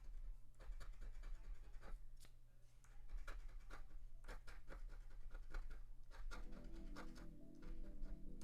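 Scratching the coating off a scratch-off lottery ticket: a run of short, irregular scratch strokes. Soft background music comes in about six seconds in.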